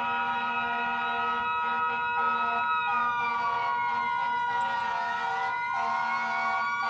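Emergency vehicle sirens sounding, several held tones at once. One siren slowly falls in pitch over a couple of seconds, then rises again toward the end.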